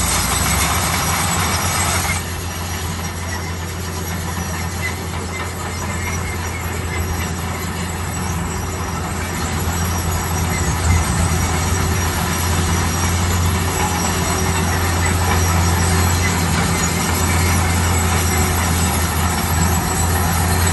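Bulldozer's diesel engine running steadily with a deep, constant drone, along with the rattle of the machine at work. A louder noise in the higher range dies away about two seconds in.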